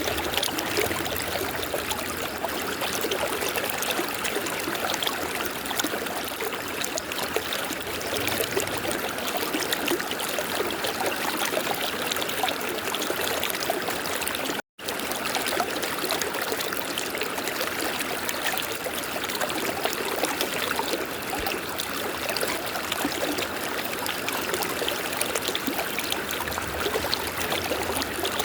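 River water flowing steadily, a continuous rushing and trickling. It cuts out to silence for a split second about halfway through.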